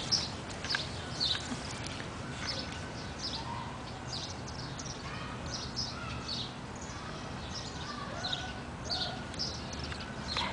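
Small birds chirping outdoors: a steady run of short, high chirps, with a few lower whistled notes mixed in.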